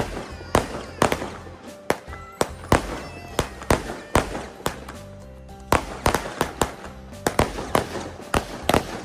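Small fireworks going off in a run of sharp, irregular cracks and pops, about two or three a second.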